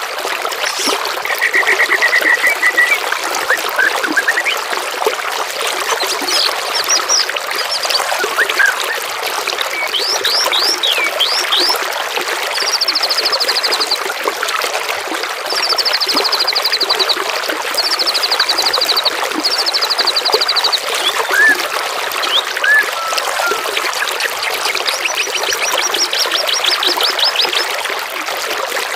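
Trickling running water with songbirds singing over it: a lower trill in the first few seconds, then sweeping whistled notes and a string of fast high trills, each one to two seconds long.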